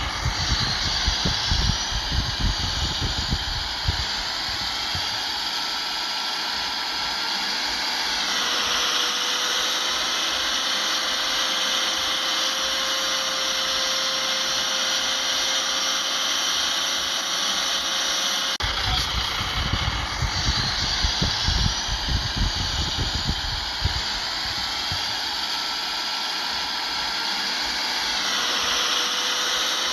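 Heavy earthmoving machinery working, most likely the bulldozer's diesel engine under load, with a steady high whine and a slowly rising tone. Bouts of low rumbling and clatter come in the first few seconds and again about two-thirds in.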